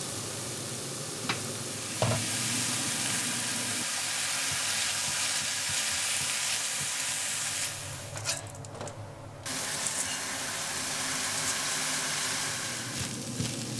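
Food frying in a hot pan, sizzling steadily, with a few sharp clicks of a utensil against the pan. The sizzle drops away for about a second and a half around eight seconds in, then comes back.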